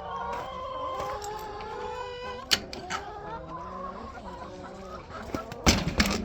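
A flock of laying hens clucking, many overlapping calls. A sharp knock comes about midway, and a louder clatter of knocks near the end.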